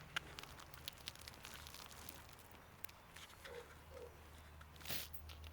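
Faint clicks and handling noises of a trigger spray bottle of ceramic spray sealant, with one short spray hiss about five seconds in, over a low steady hum.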